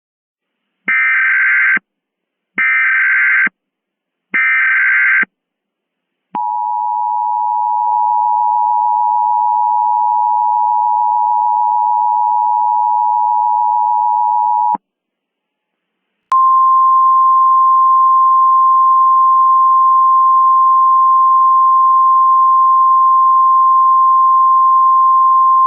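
Emergency Alert System tones: three short screeching digital header bursts about a second long each, then the two-tone attention signal held steady for about eight seconds, a brief pause, and a single steady tone like the NOAA Weather Radio 1050 Hz alert that runs on past the end.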